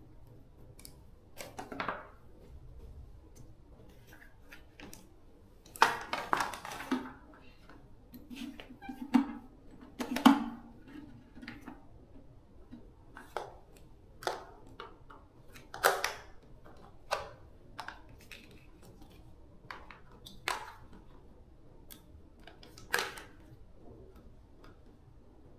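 Scattered clicks and light knocks of small hard parts and tools being handled during repair work, irregular and about one every second or so, with the loudest clatter about six and ten seconds in.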